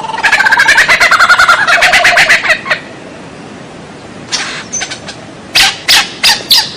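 White-rumped shama singing: a fast rattling trill of about ten notes a second lasting about two and a half seconds, then, after a pause, a string of about six sharp separate calls.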